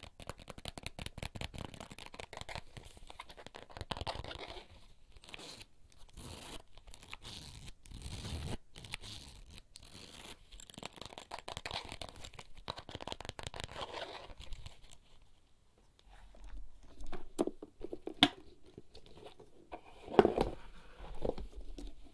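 Fingertips scratching and crinkling a small object, close to the microphone: a dense run of fine, rapid scratches and crackles. After a short lull there are several separate, louder taps and knocks near the end.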